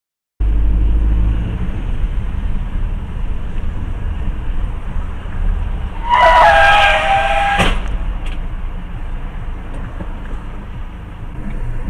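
Car interior road and engine rumble picked up by a dashcam. About six seconds in comes a loud, shrill, slightly falling squeal lasting about a second and a half, cut off by a sharp click.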